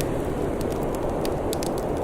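Wood fire crackling: sharp pops and snaps several times a second over a steady low rushing noise.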